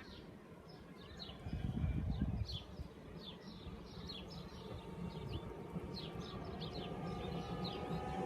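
Small birds chirping repeatedly in short quick notes, with a low rumble swelling briefly about two seconds in. In the last couple of seconds an approaching train's steady electric hum and whine rise in level.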